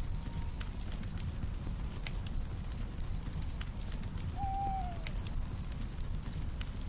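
Campfire crackling with scattered sharp pops over a low rumble, crickets chirring steadily, and a single owl hoot about four seconds in that drops in pitch at its end.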